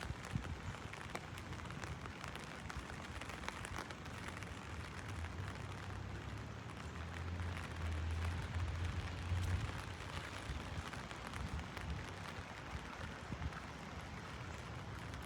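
Heavy rain drumming on an umbrella, a steady patter of countless drops. A low rumble swells up between about seven and ten seconds in and fades again.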